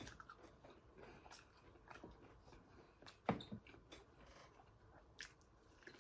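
Faint close-up mouth sounds of a person biting and chewing food, scattered small wet clicks, with one louder click about three seconds in and another shortly before the end.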